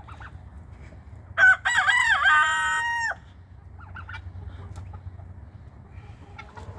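A rooster crowing once, loud, about a second and a half in: a bending start then a long held note that cuts off. Fainter clucks and bird calls around it.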